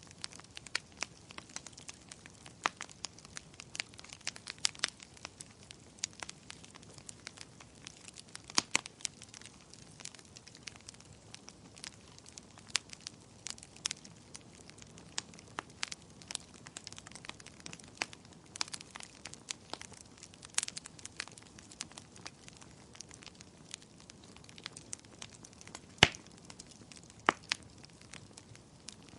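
Wood fire crackling: irregular sharp pops and snaps over a faint steady hiss, the loudest pop about 26 seconds in.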